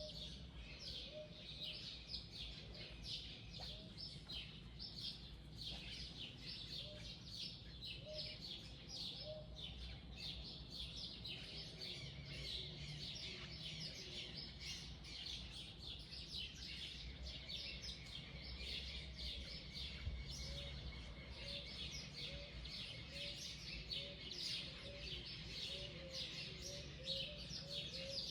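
Many wild birds chirping at once in a dense, unbroken dawn chorus, with a lower call repeating steadily underneath, quickening near the end.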